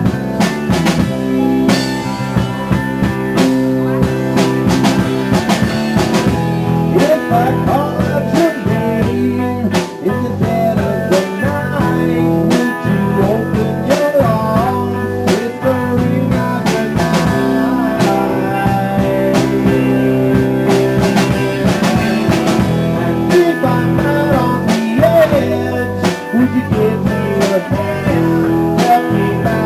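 A small band playing a blues-rock song: guitar with a drum kit keeping a steady beat.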